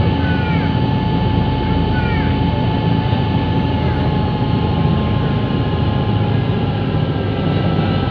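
River Class ferry's engines running, a steady loud low drone with a faint held whine above it. A few short falling chirps sound in the first three seconds.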